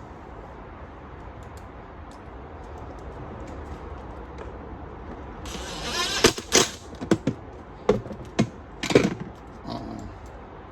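Hard plastic and small tools being handled while a lag screw is driven into a hollow plastic blow mold. After a few quiet seconds there is a short scraping rustle, then a series of sharp knocks and clicks.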